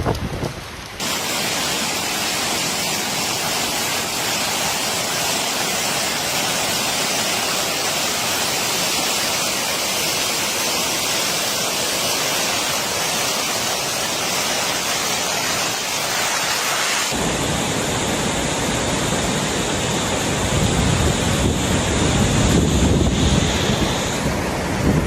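Typhoon rain and wind: a steady, even hiss of heavy downpour, which cuts about two-thirds of the way through to a deeper rushing noise with wind buffeting the microphone.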